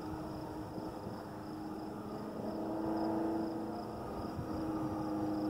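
Metra commuter train running, a low rumble with a steady hum through it.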